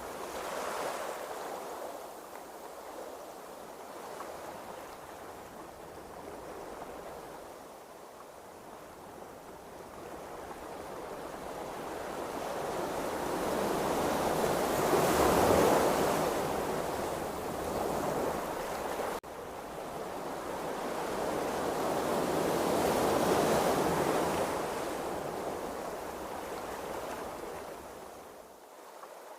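Ocean waves rushing, a steady noise of moving seawater that swells to a loud peak around the middle and again a few seconds later, then eases off near the end.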